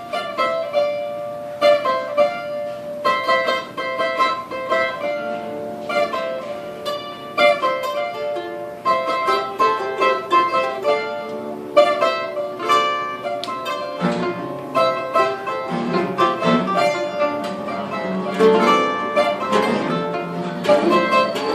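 Music on a plucked string instrument: a run of single picked notes, with lower notes filling in about two-thirds of the way through.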